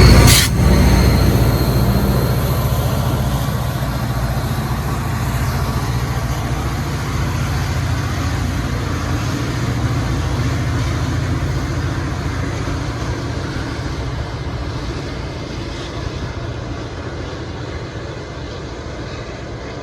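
A passing train rumbling and clattering on the rails, the sound fading steadily as it moves away.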